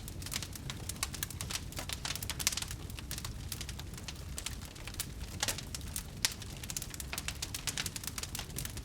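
Wood fire crackling with many small irregular pops, a few louder ones standing out, over a steady low rumble of the burning.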